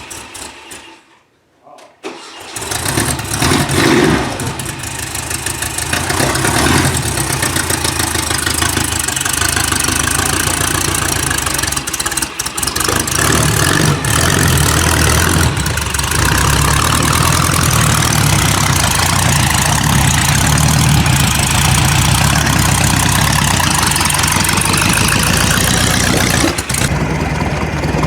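VW dune buggy engine starting about two seconds in, revving up, then running steadily as the buggy sets off.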